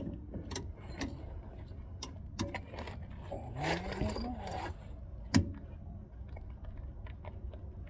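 Hand wrenches clinking and knocking against a stuck outer tie rod end on a 2004 Ford F-150's steering, with scattered light metal clicks, a short strained grunt about four seconds in, and a sharper knock a second later.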